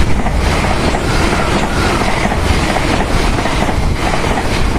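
Passenger train running past close by, its wheels clicking over the rails about twice a second.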